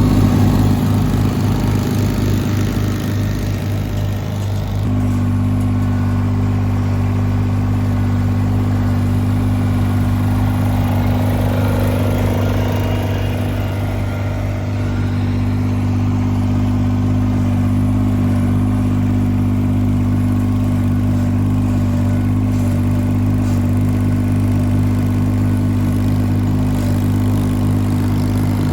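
Garden tractor engine running steadily at a constant speed, settling to an even pitch about five seconds in.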